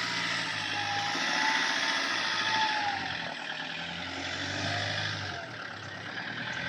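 A vehicle's engine running steadily, with a faint whine that wavers up and down in pitch.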